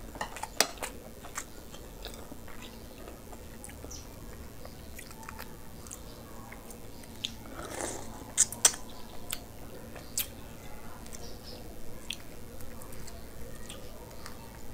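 Close-up mukbang eating sounds of a person eating curry and rice with his hands: wet chewing broken by sharp biting clicks and crunches. The loudest cluster of bites comes about eight seconds in.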